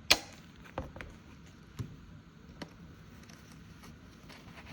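Paper budget envelopes being handled and sorted: a sharp click right at the start, then three softer taps less than a second apart and faint small ticks and rustles.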